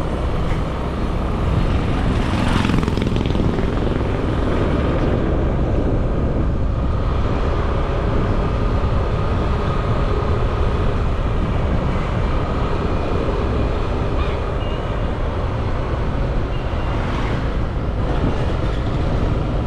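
Motorbike running steadily while being ridden, its engine under a continuous rumble of wind and road noise, with two brief louder swells, a couple of seconds in and near the end.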